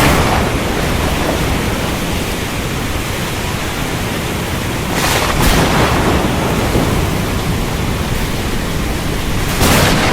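Thunderstorm: steady heavy rain with a low rumble of thunder underneath, swelling in two brief surges, about halfway and near the end.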